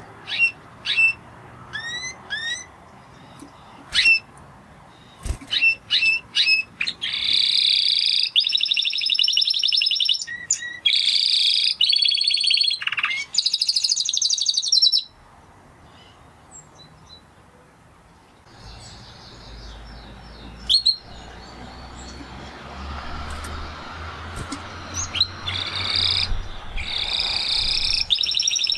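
Spanish Timbrado canary singing: short separate chirps at first, then long, fast trills and rolls. A few seconds of pause follow, and the trills return near the end.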